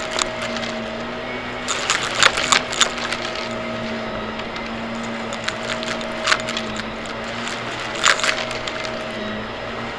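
Vacuum cleaner running steadily with a constant hum. Clusters of crackling and rattling come about two seconds in, around six seconds and around eight seconds in, as debris is picked up.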